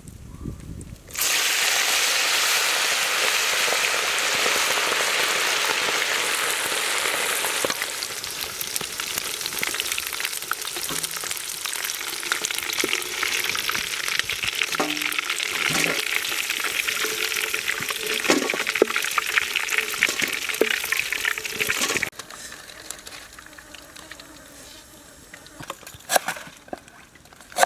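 Baby birds frying in hot oil: a loud sizzle with crackling that starts suddenly about a second in, eases a little partway through, and cuts off abruptly near the end, leaving faint crackles and a few clicks.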